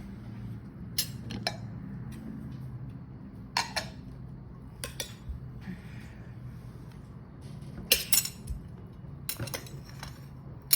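Utensil and dish clinking and tapping: a dozen or so sharp clicks at irregular moments, many in quick pairs, the loudest about eight seconds in.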